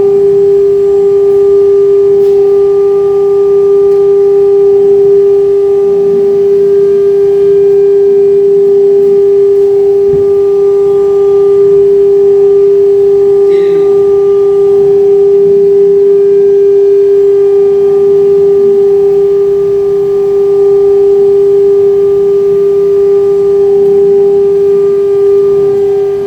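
CNC router spindle running with a steady, unbroken whine.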